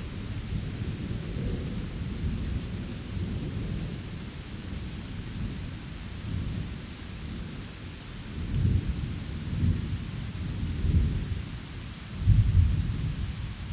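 Steady rain with low rolling thunder, the rumble swelling several times in the second half, loudest near the end.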